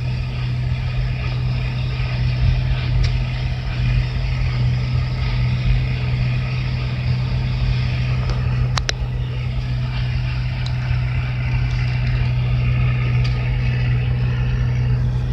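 Steady engine drone and road noise of vehicles travelling at about 12 miles an hour, with a low, even hum throughout and a single sharp click about nine seconds in.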